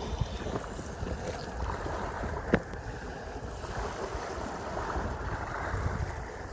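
Sea waves washing, with wind buffeting the microphone in a low rumble. A single sharp click comes about two and a half seconds in.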